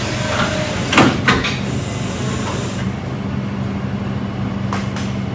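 A tow truck's engine idling steadily, with two loud metallic clanks about a second in and a couple of lighter knocks near the end.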